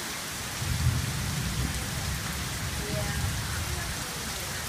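Heavy rain falling steadily, with a low rumble that rises about half a second in and fades out after a few seconds, like distant thunder.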